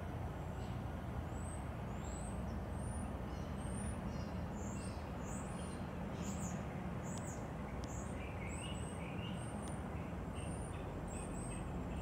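Small birds chirping: short, high, rising chirps every second or so, joined by a lower twittering in the later part, over a steady low rumble.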